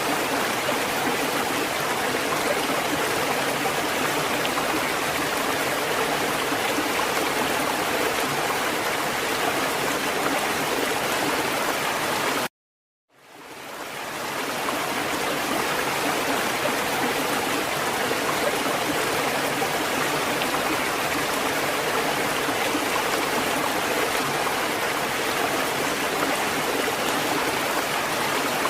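Steady rushing water, an even hiss with no rise and fall of breaking waves. About twelve seconds in it cuts out abruptly for about half a second, then fades back up over a second or so.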